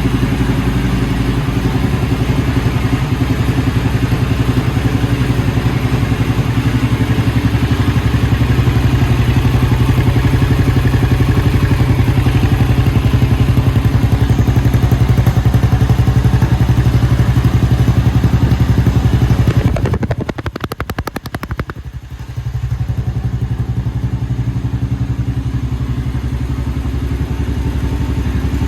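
Honda CB400SS single-cylinder engine running steadily through a WM Capton aftermarket muffler, a low, even exhaust beat. About twenty seconds in the sound drops away for a couple of seconds, single firing pulses standing out, then settles back to steady running a little quieter.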